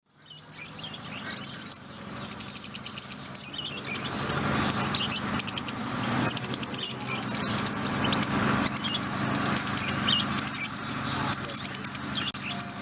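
A chorus of songbirds chirping and singing, with many short tweets and rapid trills overlapping, fading in over the first second above a low steady hum.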